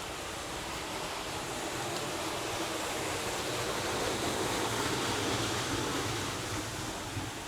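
Running water rushing steadily, growing louder to a peak about halfway through and then easing off, as if it is walked past.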